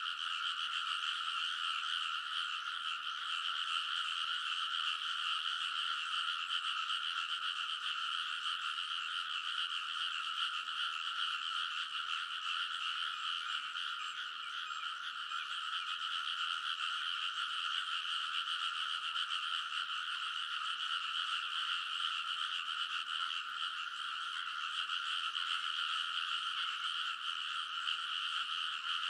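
A dense chorus of many frogs croaking in a rice paddy. The calls merge into one steady, unbroken din.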